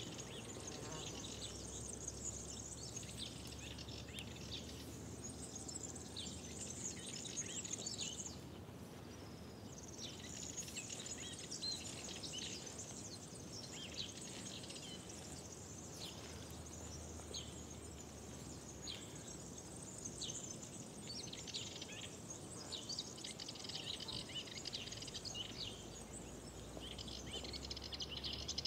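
Birds singing in a dense chorus of overlapping high chirps and trills, with a short lull about eight seconds in. A low, steady rumble runs underneath.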